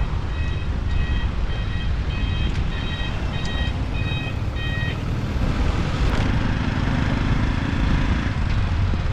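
Road and wind noise of a motorbike riding in city traffic, with an electronic beep repeating about twice a second that stops about five seconds in.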